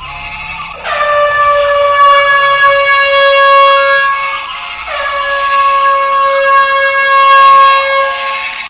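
Two long horn blasts, each lasting about four seconds, that open with a brief downward slide in pitch and then hold one steady note.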